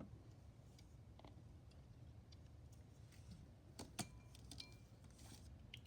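Near silence with a low room hum and a few faint handling clicks and taps, the sharpest one about four seconds in.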